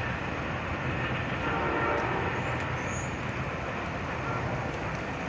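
Metra commuter train running away from a grade crossing, a steady rail noise, as the crossing gates go up behind it.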